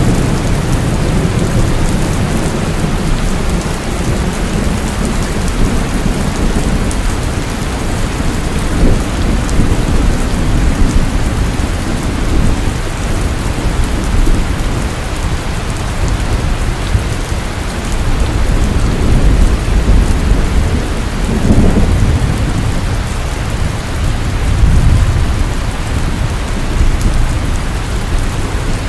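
Steady rain with low rolling rumbles of thunder that swell up twice in the later part.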